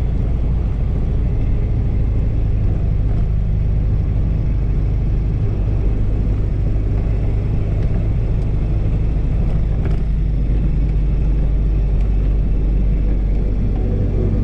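Steady low engine and road rumble of a vehicle driving along a badly broken forest road.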